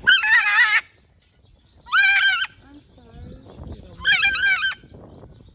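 Birds squawking: three loud, wavering calls about two seconds apart, each lasting well under a second.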